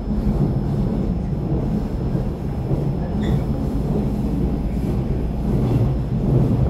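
Cabin noise inside a TRA EMU700 commuter train running at speed: a steady low rumble of wheels on rail and running gear.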